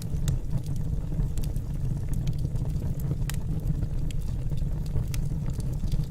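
Wood logs burning in a fireplace: a steady low rumble of the fire with scattered sharp crackles and pops from the wood, one louder pop about halfway through.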